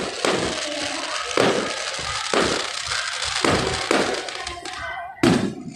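Fireworks display: aerial shells bursting one after another, about one boom a second, over a continuous din with music underneath.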